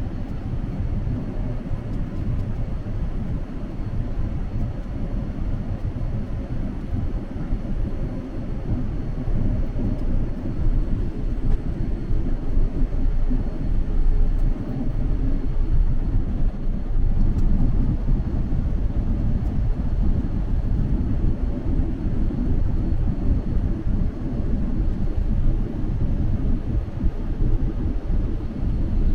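Steady low rumble of a jet airliner cabin in flight: engine and airflow noise, growing a little louder about a third of the way in.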